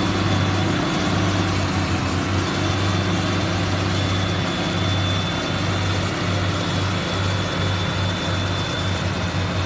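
Heavy vehicle engine running at a steady speed: a low, even hum with a faint high whine over it.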